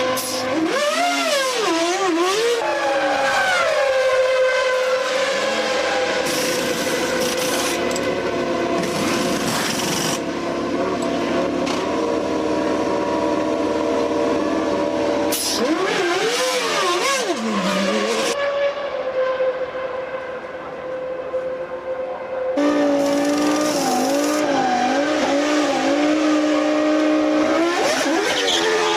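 1997 Formula One cars' high-revving racing engines, heard from trackside as they pass. Their pitch swoops up and down with gear changes and fly-bys, and the sound shifts abruptly several times as one car gives way to another.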